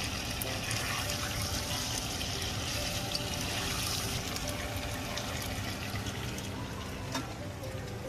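Potato chunks sizzling as they fry in hot oil in a pan, a steady hiss that starts suddenly. A single click about seven seconds in.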